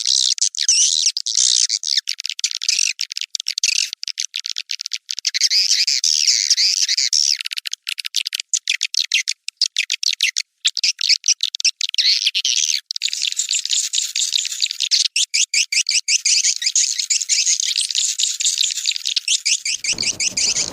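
Swiftlet call-lure recording of white-nest swiftlets: dense, continuous high-pitched chattering twitters mixed with rapid clicks, with nothing in the low range. Just before the end, a fuller sound with low tones comes in.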